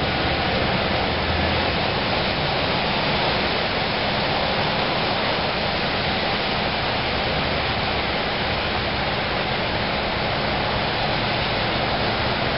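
Steady rain hiss, an even rushing noise with no breaks.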